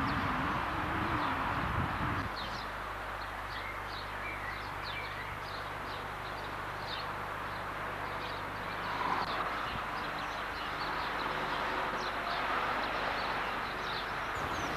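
Small birds chirping repeatedly, short high calls about once or twice a second, over a steady outdoor hiss. A low rumble stops about two seconds in.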